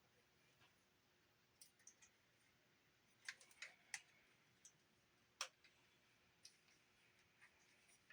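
A scattering of faint, irregular small clicks and taps from handling a Sony TC-50 pocket cassette recorder and its plastic parts.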